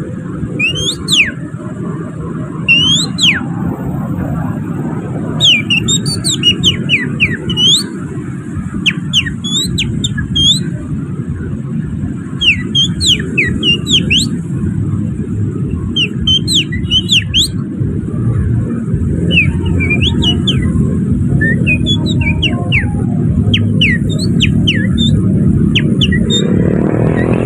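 Hand-whistled bird song made through the fingers, imitating an oriental magpie-robin (kacer): clusters of quick, sharp up-and-down whistled chirps with short gaps between them, over a steady low rumble of traffic. A vehicle engine swells in right at the end.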